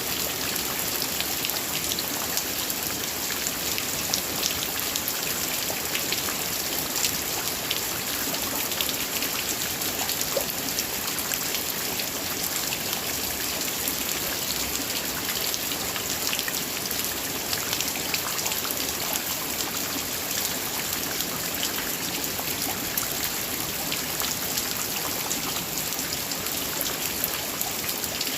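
Heavy rain falling steadily, a dense even hiss with countless small drop impacts close by.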